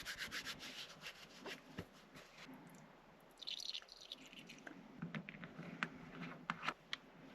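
Faint rustling with scattered light clicks and taps, handling sounds in a small room; a short burst of rustling comes about three and a half seconds in.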